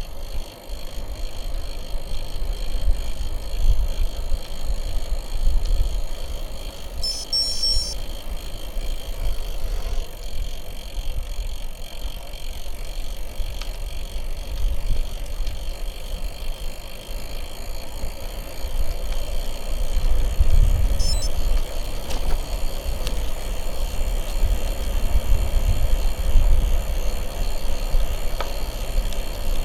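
Wind buffeting the microphone as a gusty low rumble over bicycle tyres rolling along the road. Brief high chirping comes about seven seconds in and again around twenty-one seconds.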